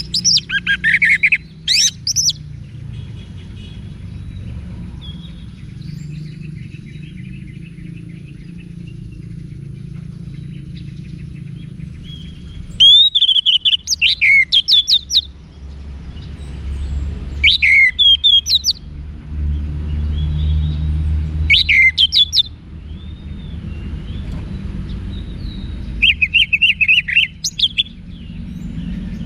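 Orange-headed thrush singing: short loud phrases of rapid whistled notes that sweep up and down in pitch, repeated about five times a few seconds apart. A steady low rumble runs underneath.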